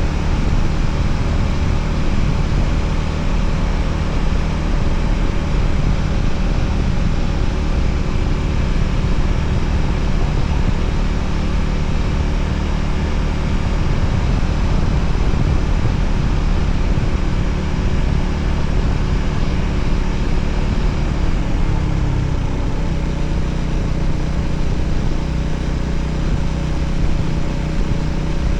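Voge 300ACX motorcycle engine running under way, a steady engine note over a haze of wind and road noise; the engine note shifts about 21 seconds in and settles at a new steady pitch.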